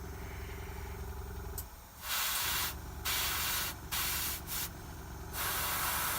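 Airbrush spraying in short on-off bursts of hiss as the trigger is pressed and released, starting about two seconds in, over a steady low hum.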